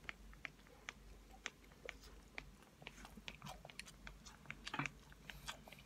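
A person chewing a mouthful of cooked rice, with faint, irregular wet mouth clicks and smacks.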